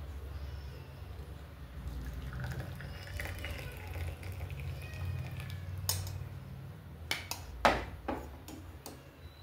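Tea being poured into a cup over a steady low rumble, followed by a few sharp knocks and clinks, one much louder than the rest, near the end.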